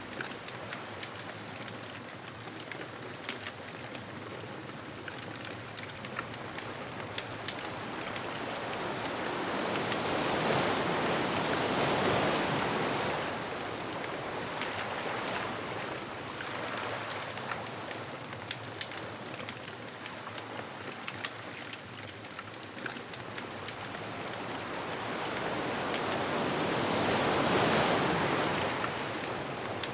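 Ocean waves washing onto a beach, swelling and breaking twice, about a third of the way in and again near the end, with faint crackling from a bonfire throughout.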